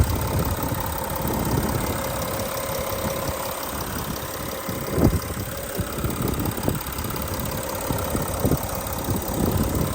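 2014 Porsche Cayenne's engine idling steadily, heard with the hood open, with one brief sharper tap about halfway through.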